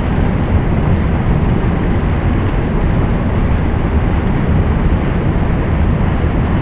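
Water rushing in a steady, dense roar, heaviest at the low end, with no distinct splashes or drops.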